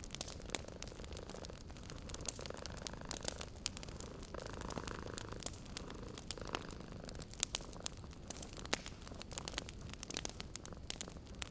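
Wood fire crackling, with irregular sharp pops and snaps, over a cat's steady low purr.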